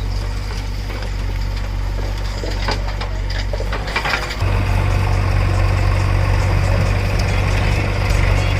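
Heavy diesel machinery running steadily, with a run of knocks and rattles a few seconds in. About halfway through, the engine comes under load and grows louder.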